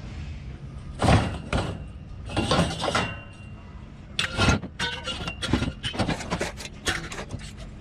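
Scrap steel being thrown by hand onto a scrap pile, clanging and ringing. A couple of heavy clanks come about a second in, then a scraping slide, then a quick run of lighter metal clinks and rattles.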